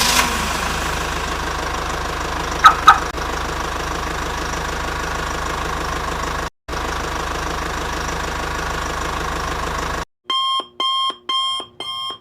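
Truck engine sound effect running steadily, with two short loud horn honks about three seconds in. Near the end it gives way to a repeating electronic beep, about two a second, like a vehicle's warning alarm.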